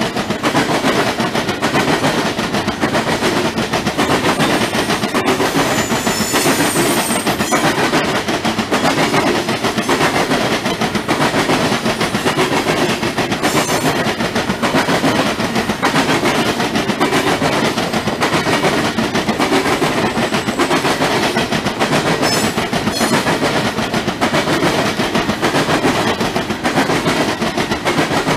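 Loaded Norfolk Southern coal hopper cars rolling past: a steady, rapid clatter of steel wheels on the rails, with a few brief high squeals.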